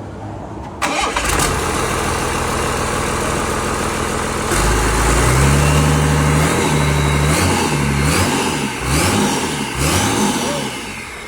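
A rebuilt excavator diesel engine is cranked by its starter and catches about four and a half seconds in. It runs with a low, heavy note, is revved up and down a few times, then drops back toward idle.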